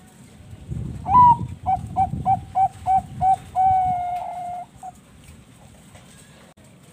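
A Bangkok perkutut (zebra dove) sings one full song phrase. An opening coo with a hook in pitch comes about a second in. Six short clipped notes follow in a steady rhythm, then one long held coo and a brief closing note.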